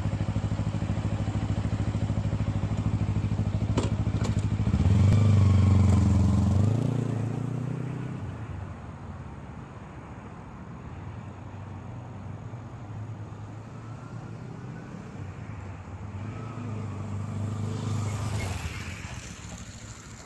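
Kawasaki Ninja 250R's parallel-twin engine running on the road. The revs climb about five seconds in and fall back a couple of seconds later, then it runs more quietly and rises again near the end. There are a couple of sharp clicks just before the first rise.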